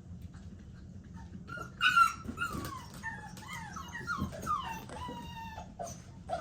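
American Bully XL puppy whining and yelping, a quick string of high cries that mostly fall in pitch, loudest about two seconds in.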